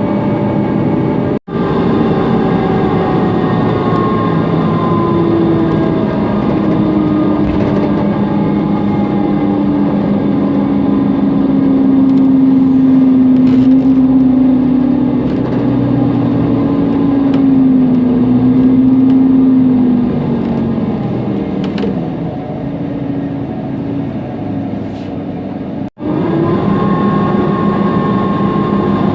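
Cabin sound of a Mercedes-Benz Conecto NGT city bus under way: its Mercedes-Benz OM 936 G CNG engine and driveline running with a noisy cooling fan, the pitch gliding up and down as the bus speeds up and slows. It is louder through the middle and eases a little later on, and the sound cuts out briefly twice, near the start and near the end.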